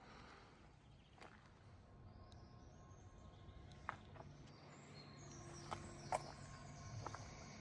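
Quiet outdoor ambience close to silence, with a few faint clicks and a faint steady hum that grows slightly louder from about two seconds in.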